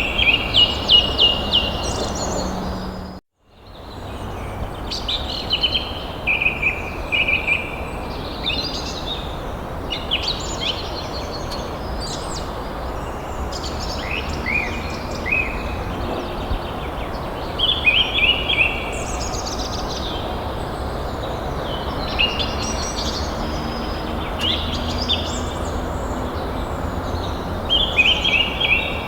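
Songbirds singing short repeated phrases every few seconds over a steady background hiss, with a brief cut to silence about three seconds in.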